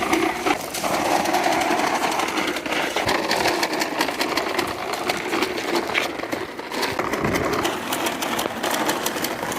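Little Tikes plastic toy lawn mower rattling with a fast, continuous run of clicks as it is pushed along.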